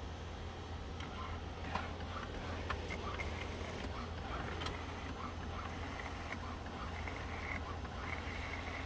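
HP OfficeJet Pro 8710 inkjet printer working through a copy job: a steady low hum with scattered faint mechanical clicks and ticks from the scanning and paper-feed mechanism.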